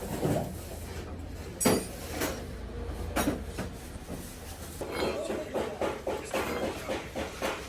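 Metal tools clinking against each other and against metal, with two sharp, ringing strikes in the first few seconds, then a quicker run of light taps.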